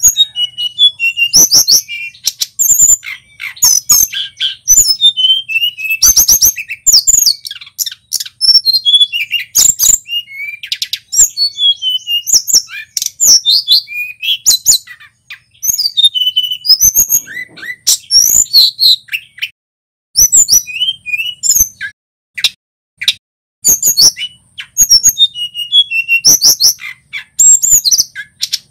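Male tledekan gunung, a small flycatcher, singing: fast runs of high chirps, trills and falling whistles in repeated phrases, broken by short pauses.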